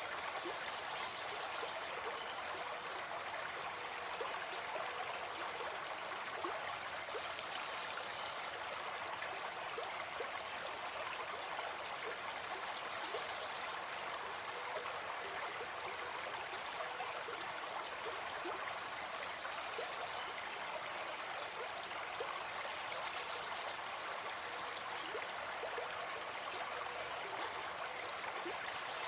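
Shallow forest stream flowing steadily over stones, a continuous babble with small splashes and gurgles.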